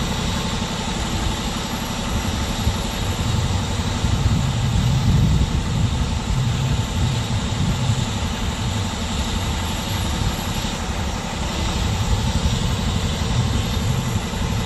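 A motor vehicle engine idling: a steady low rumble with a soft pulsing beat.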